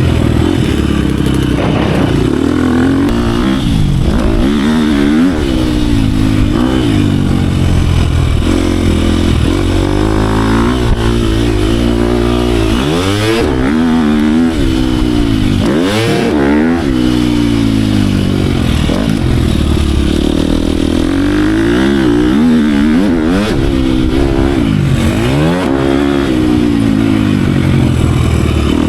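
Dirt bike engine ridden hard around a motocross track, revving up and dropping back again and again as the throttle is opened and closed through shifts and over jumps.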